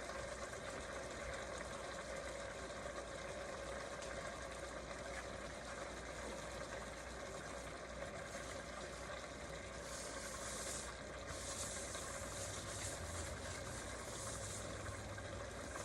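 Seasoned chicken pieces frying in a pot of caramelized sugar, a steady sizzle over a steady low hum, the sizzle growing brighter about ten seconds in.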